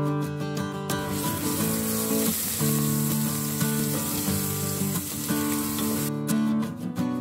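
Chopped aromatics sizzling in hot oil in an aluminium pressure cooker as they are stirred, from about a second in until near the end. Acoustic guitar music plays throughout.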